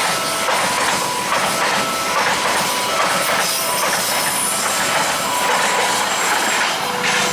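A train passing over a level crossing, its wheels clattering on the rails, while the crossing's warning alarm keeps sounding its two alternating tones, one higher and one lower, each about half a second long.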